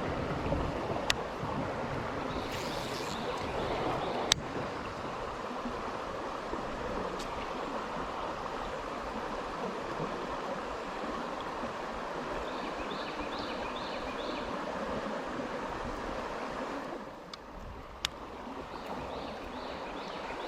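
Steady rush of flowing river current, with a few sharp clicks, the strongest about four seconds in.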